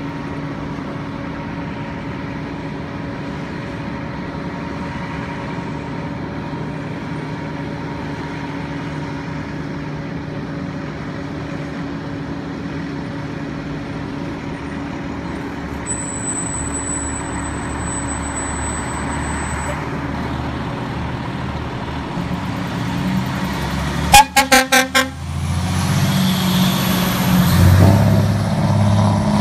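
Fire engine idling steadily, then, near the end, a rapid burst of short air horn blasts, the loudest sound here, followed by the engine getting louder as the truck moves off.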